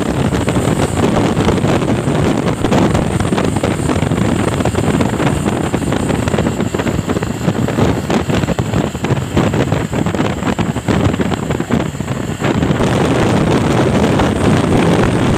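Truck on the move: steady engine and road noise, with wind buffeting the microphone.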